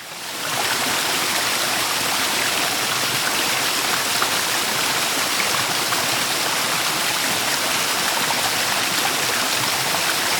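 Steady rushing of water from a forest creek flowing over rocks. It fades in quickly at the start and then holds even.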